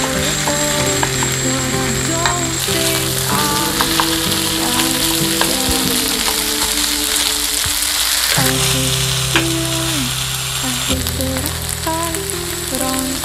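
Kimchi fried rice sizzling steadily in a frying pan over medium heat while it is stirred and tossed with a wooden spatula and chopsticks.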